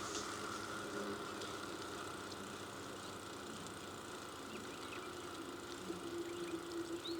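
Steady hum of a motor vehicle engine, its pitched drone growing stronger in the last couple of seconds, with a few faint bird chirps above it.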